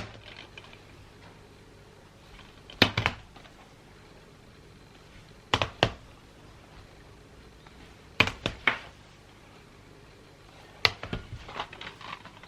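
Handling noise from gift wrapping: four short clusters of two or three sharp clicks and taps, spaced about every two and a half seconds.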